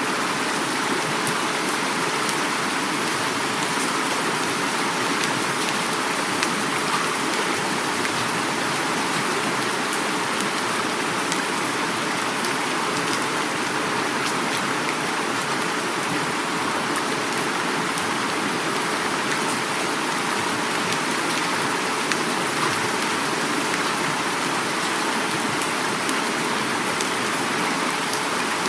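Heavy rain falling steadily, with scattered individual drops ticking, over the constant rush of flowing river water.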